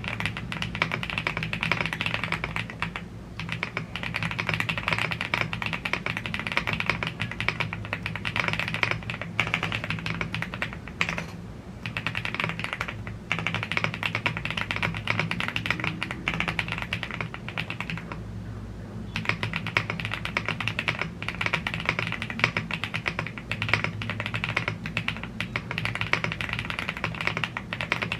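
Continuous fast typing on a YUNZII AL75 aluminium gasket-mounted mechanical keyboard with Blue Grey tactile switches and double-shot PBT keycaps, with a few short pauses between bursts.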